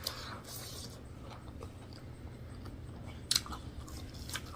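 A person chewing food close to the microphone, with a few short mouth clicks, the clearest a little over three seconds in, over a steady low hum.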